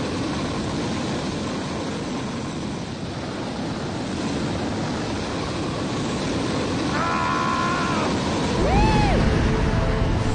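Steady rushing wind noise on the microphone during a fast descent, growing louder over the last few seconds, with a brief rising-and-falling tone near the end.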